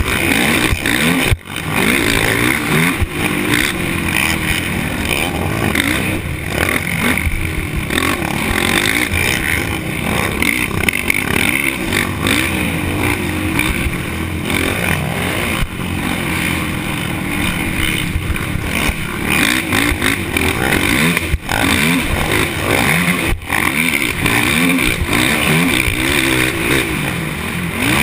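Off-road race engines revving up and down continuously, several overlapping pitches rising and falling as they accelerate and shift.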